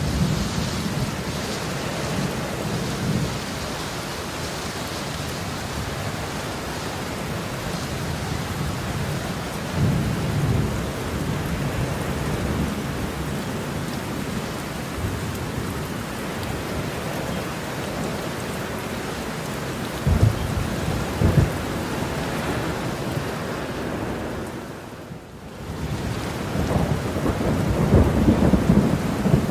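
Heavy rain falling steadily, with low rolls of thunder rumbling in several times: at the start, about ten seconds in, around twenty seconds in, and a longer, louder roll near the end.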